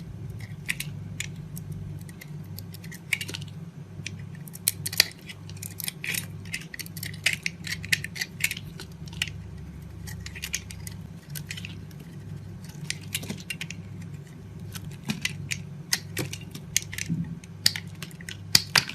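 Knife cutting through dry soap: crisp, irregular crunching and crackling with sharp snaps, over a steady low hum.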